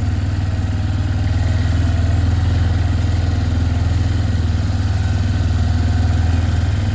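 Engine of a ridden vehicle running steadily with an even low drone; it needed a little choke to start and has been warmed up.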